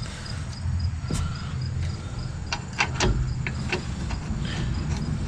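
A quick run of light metallic clicks and clinks about two and a half seconds in, from bolts and hand tools being handled during brake reassembly. Under it runs a steady pulsed chirping of insects.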